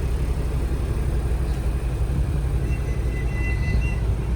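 Houseboat engine running steadily under way, a continuous low rumble, with a faint thin high tone for about a second in the second half.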